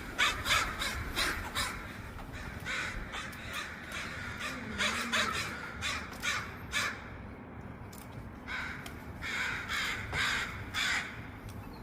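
Crows cawing over and over in runs of several harsh calls, with short pauses between the runs.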